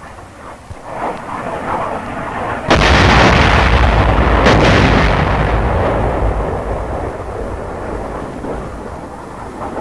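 A large explosion from a jet air strike on a ground target goes off nearly three seconds in, with a second sharp crack about two seconds later. A deep rumble follows and dies away slowly over several seconds.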